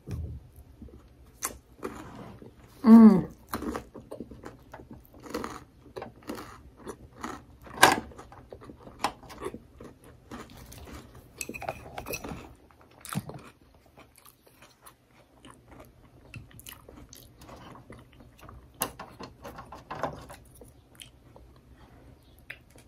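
Close-up chewing of a mouthful of sweet potato sushi roll: irregular wet mouth clicks and smacks. About three seconds in comes a short falling hummed "mmm", the loudest sound, and a sharp click follows near eight seconds.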